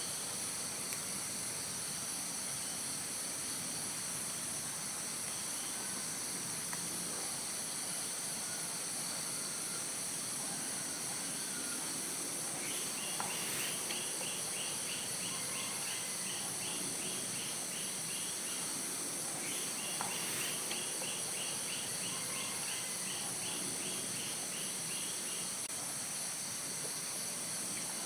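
Steady chorus of insects shrilling in a bamboo forest, several high trills held without a break. About halfway through, a quicker rapidly pulsed chirping call joins in for a few seconds, then comes again after a short pause.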